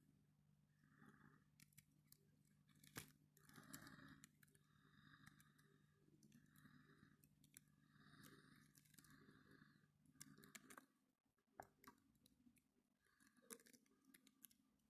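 Near silence, broken by faint repeated scraping strokes and a few light clicks: epoxy being scraped out of a mixing cup into a small electronics box.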